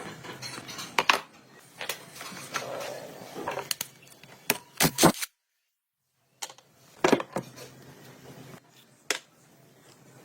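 Scattered clicks, taps and clinks, like small metal parts being handled and set down, with the sound cutting out completely for about a second midway.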